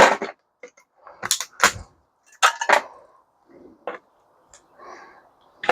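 Scattered clanks and clicks of metal parts and tools being handled while a microwave oven is stripped for scrap, about half a dozen separate knocks with short gaps between them.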